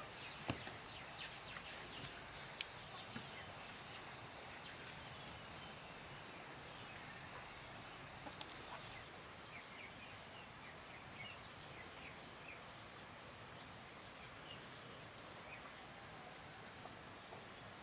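Insects droning steadily at a high pitch, with scattered short bird chirps and a few sharp clicks in the first half. About halfway through, the drone drops suddenly to a lower pitch.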